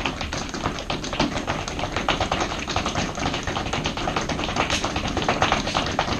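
Feet tapping quickly and continuously on the floor in a seated running-in-place drill, a dense stream of many short taps per second.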